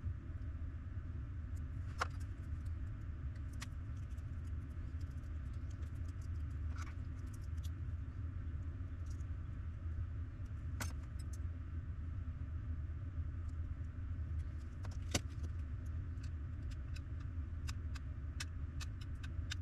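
Scattered light clicks and taps, as of small parts being handled, that come more often near the end, over a steady low hum.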